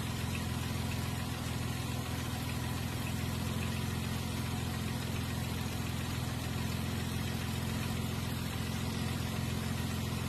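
Car engine idling steadily with a low, even hum while air is burped out of the cooling system after a thermostat replacement.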